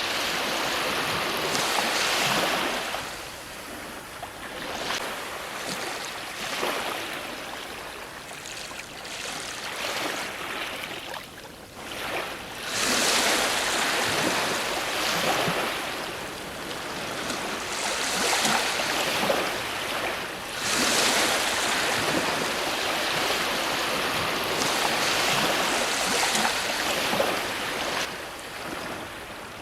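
Ocean waves breaking on a shore, one surge of surf after another every few seconds, with a brief lull between breakers about twelve seconds in.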